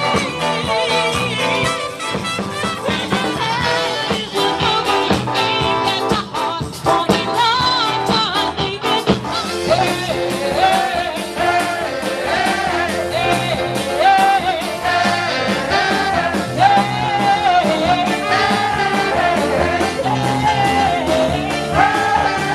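A live band playing an upbeat song, with drums keeping a steady beat under full accompaniment; a lead melody line comes in prominently about ten seconds in.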